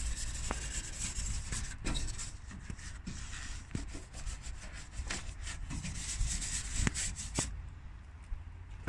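Detailing brush scrubbing engine bay surfaces in quick, irregular scratchy strokes, agitating degreaser to loosen grease. The scrubbing thins out about seven and a half seconds in.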